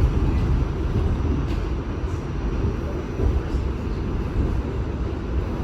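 New York City subway train running, heard from inside the car: a steady low rumble of wheels on the rails, with a few faint clicks.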